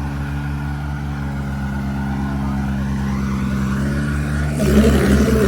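Farm tractor diesel engines running with a steady low firing beat, the revs creeping up, then opened up sharply about four and a half seconds in.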